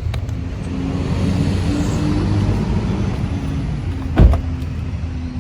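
A car's engine running with a steady low rumble, interrupted by a single loud thump about four seconds in.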